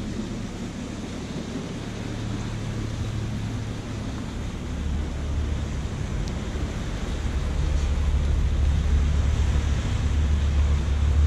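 Wind buffeting the microphone outdoors: a steady rumbling noise that grows heavier about halfway through.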